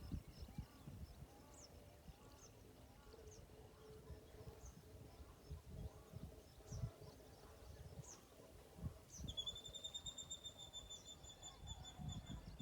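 Faint rural outdoor ambience: scattered short, high bird chirps over low, irregular rumbling. About nine seconds in, one steady high whistling tone starts and holds for about three seconds.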